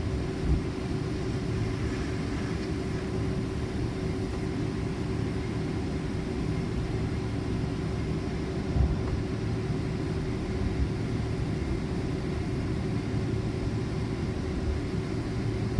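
Steady low rumble of a Boeing 767-400ER heard from inside the cabin, with a constant hum over it and a couple of brief thumps, about half a second in and about nine seconds in.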